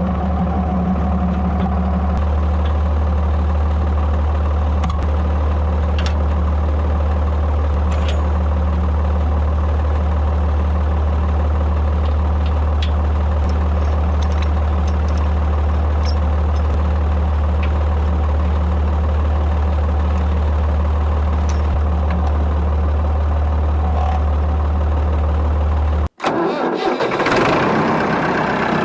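Ford 3000 tractor engine idling steadily, a constant low rumble. A few seconds before the end it cuts out abruptly and gives way to a louder rushing noise.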